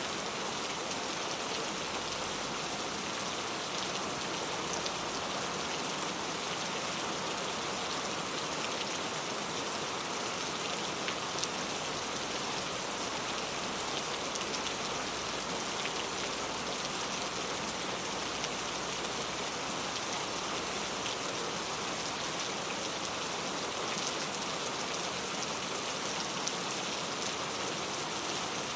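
Steady rainfall, an even hiss of drops with faint scattered patters on surfaces.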